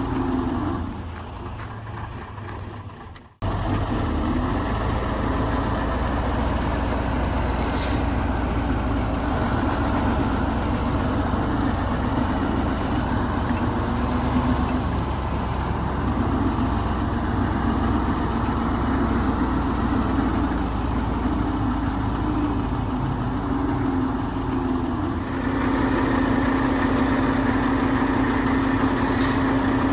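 Heavy diesel engine of earthmoving machinery running, with a strong low engine note. The sound fades in the first seconds and returns abruptly a little after three seconds in, then settles into a steadier, louder hum about twenty-five seconds in. Two short high hisses come about eight seconds in and near the end.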